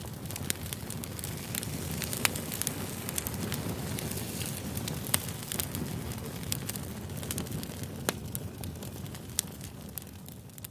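Campfire crackling: a steady rustle of burning wood with sharp pops scattered irregularly through it, the loudest about two seconds in. The sound fades near the end.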